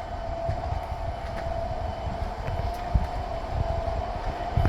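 Smoke-equipped model train running on a layout: a steady whine over an uneven low rumble.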